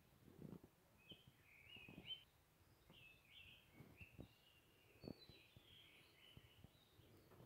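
Near silence with faint bird calls: short chirping notes in small clusters, about one cluster a second, plus a few soft low knocks.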